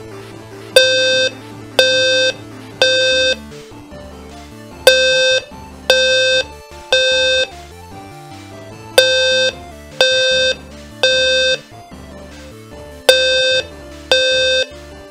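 System Sensor P2RL-LF low-frequency (520 Hz) fire alarm horn sounding the temporal code 3 evacuation pattern: three buzzy square-wave beeps about a second apart, then a pause, repeating.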